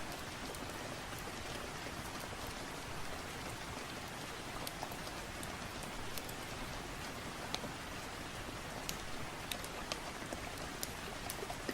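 Steady rain falling on a surface, an even hiss with scattered sharp ticks of individual drops that come more often in the second half.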